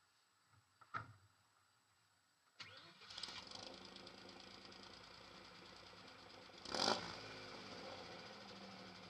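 Suzuki Samurai engine with a straight-pipe exhaust starting up: a single knock about a second in, then about two and a half seconds in the engine catches and settles into a steady idle, with one brief loud burst near seven seconds. The owner says its cylinder head has no problems.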